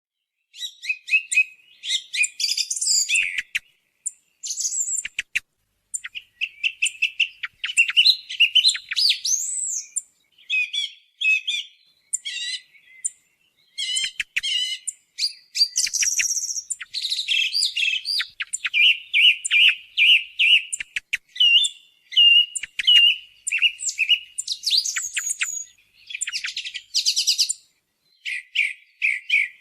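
Song thrush singing a lure recording: a continuous string of varied, clear phrases, many of them made of one note repeated several times, with short pauses between phrases.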